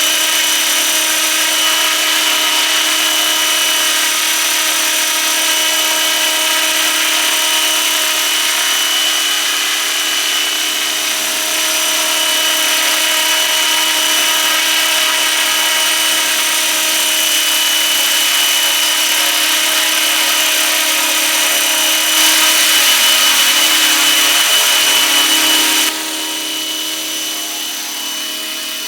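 Radio-controlled scale MD 500 model helicopter in flight: a steady, high-pitched whine of motor and rotors carrying several steady tones. It gets a little louder about three-quarters of the way through, then drops suddenly a few seconds later.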